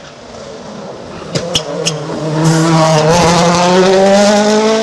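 Rally car engine under hard acceleration, loud, after a few sharp clicks; the engine note dips briefly about three seconds in, as at a gear change, then climbs steadily in pitch.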